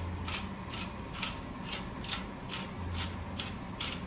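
Hand-twisted pepper mill grinding fresh black peppercorns: a run of short, dry rasping clicks, about three a second.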